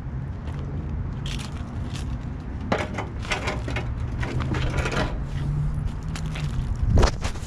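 Metal parts and tools clattering, rattling and scraping during work on a car's body, with a loud knock near the end, over a steady low hum.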